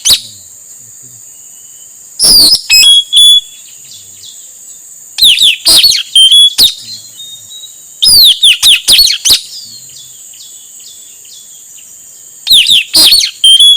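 Male puling (nuri tanau) calling: four loud bursts of shrill, down-slurred notes, each burst a rapid run of several notes lasting about a second, repeating every three seconds or so.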